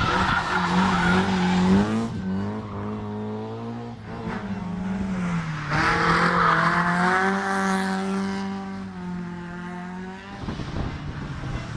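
A historic rally car's engine revving hard on a special stage, its pitch dropping and climbing again through gear changes, with some tyre squeal; the engine note fades away about ten seconds in.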